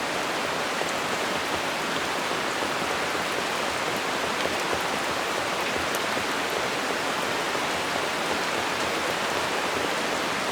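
Steady rain falling on leaves, a dense even patter with a few sharper drop ticks.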